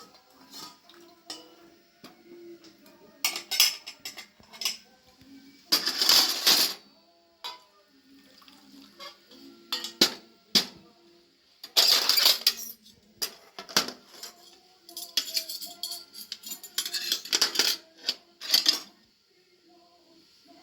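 Pots and metal utensils clattering and scraping in about a dozen short, irregular bursts.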